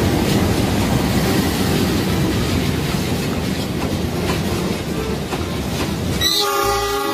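A diesel-hauled passenger train running past at close range: a steady heavy rumble and clatter of wheels on rails. About six seconds in the rumble falls away and a steady chord of several tones starts.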